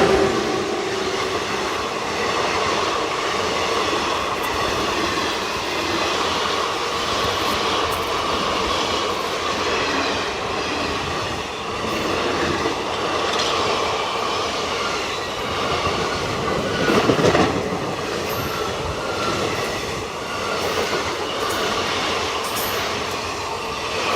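A train running past on the rails, its wheels clattering steadily over the track with a steady high squealing tone, and one louder clatter about two-thirds of the way through.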